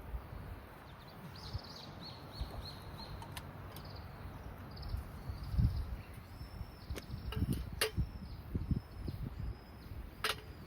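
A bird singing a series of short, repeated high notes, over low thumps and rustling from handling or movement, with a couple of sharp clicks near the end.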